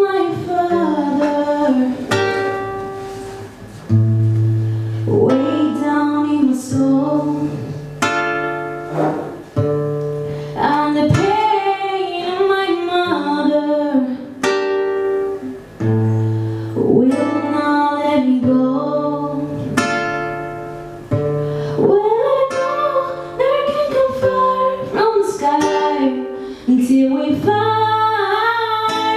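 A woman singing a song over plucked acoustic guitar chords, live.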